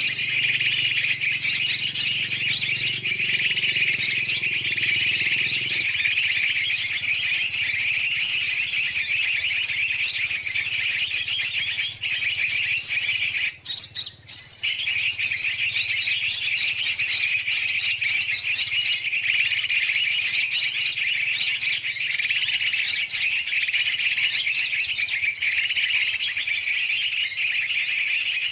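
Dense, continuous chorus of chirping birds from a bird-lure recording: yellow-vented bulbul (trucukan) calls mixed with other large and small birds calling noisily, played to draw birds in. The chorus drops out for a moment about halfway through.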